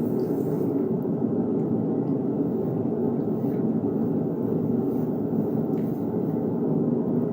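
Blacksmith's forge running with a steady roar.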